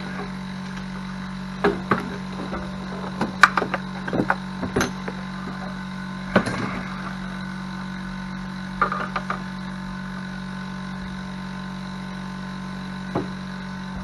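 Irregular metal clunks and knocks as the Yamaha G16 golf cart engine is worked loose and lifted out of the cart, over a steady low hum. The clunks come in small clusters, the busiest a few seconds in, then a few isolated knocks near the end.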